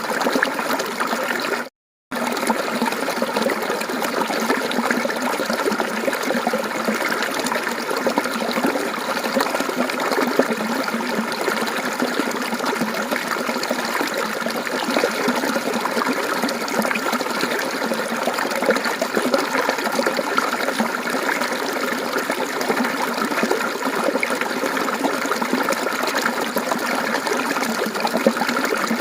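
Mountain stream water flowing and trickling steadily. The sound cuts out completely for a moment just under two seconds in, then resumes.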